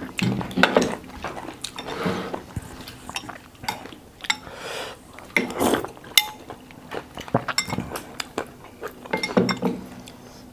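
Cutlery clinking against bowls and plates during a meal: a string of sharp, irregular clinks with softer scraping between them.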